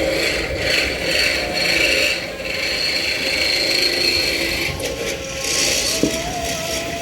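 Irregular scraping and rattling as fish are handled and unloaded from the boat. A steady hum starts with a sharp click about six seconds in.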